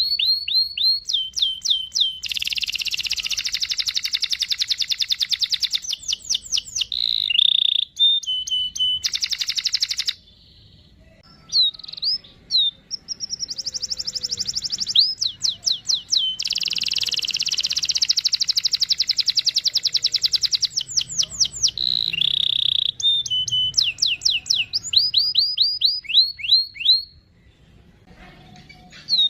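Domestic canary singing vigorously: series of quick downward-sweeping chirps alternating with long, very rapid trills (rolls) lasting several seconds, broken by two short pauses.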